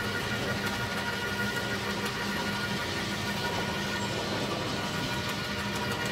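Electric garden shredder running steadily, its motor giving a constant whirr with no let-up.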